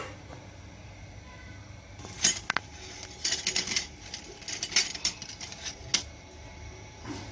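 Metal scooter gearbox parts clinking and clicking as they are handled, an irregular run of sharp knocks, some briefly ringing, starting about two seconds in and stopping near the end, over a faint steady hum.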